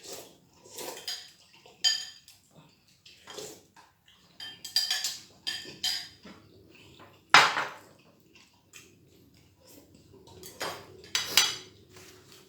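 Cutlery clinking and scraping against plates and bowls during a meal: a string of separate clinks, some ringing briefly, with the loudest knock a little past seven seconds in.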